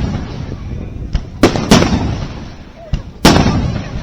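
Aerial firework shells bursting: two loud bangs close together about a second and a half in and another near the end, each trailing off in a rolling echo, with a couple of fainter cracks in between.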